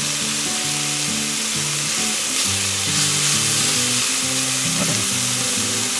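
Meat and sausages sizzling steadily on a thick iron griddle plate, with soft background music of low held notes underneath.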